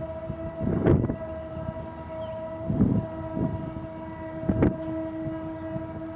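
A slow-moving Fort Smith Railroad train: a steady droning tone holds throughout while four heavy clunks come about every two seconds. Faint bird chirps are in the background.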